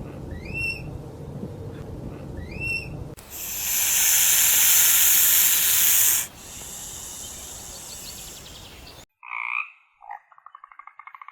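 An animal gives two short whistled calls that rise and fall, then a loud hiss covers about three seconds and falls to a quieter hiss. About nine seconds in, it cuts to short, rapidly pulsed croaking calls.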